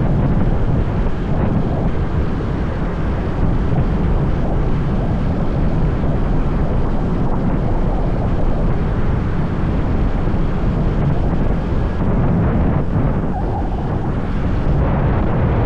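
Motorbike riding at speed: steady wind buffeting on the microphone over the bike's running engine and road noise, a loud, even rumble.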